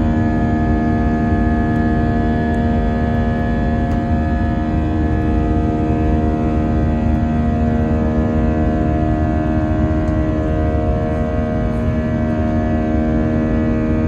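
Airbus A321 jet engines and airflow heard inside the passenger cabin: a loud, steady drone with several constant tones over a deep rumble, typical of the engines under takeoff or climb power.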